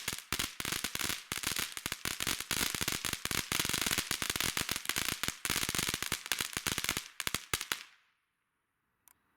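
Cannon Brand Prank Box firework crackling, a dense rapid run of sharp pops and snaps that thins out and stops just under eight seconds in.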